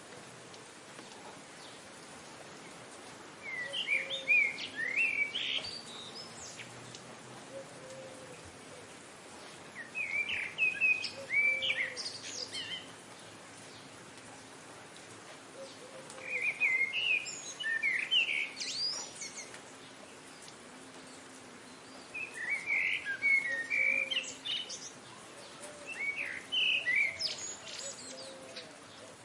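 A bird singing five short warbled phrases, each two to three seconds long and spaced about six seconds apart, over a steady background hiss.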